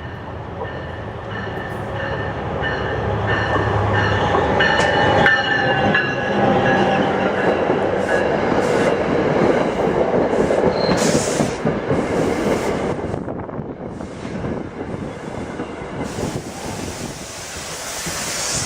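A passenger train passing close by. Its rumble builds up, with thin high squealing tones from the wheels early on. In the middle come repeated sharp clicks of wheels over rail joints.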